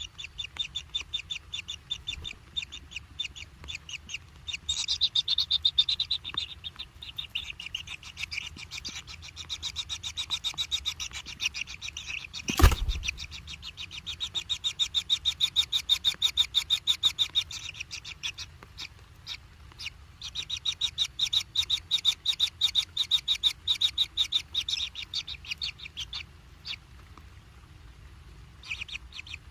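Nestling begging calls: rapid, evenly repeated high chirps, many a second, in bouts of several seconds with short pauses. One loud knock about twelve seconds in.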